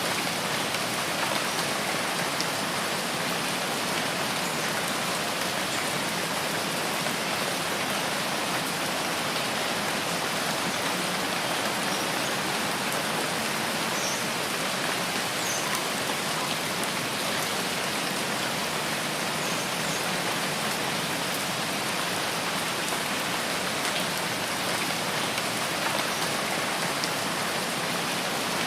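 Steady rain falling on foliage in a rain forest, an even hiss of many drops. A few faint high chirps show in the middle.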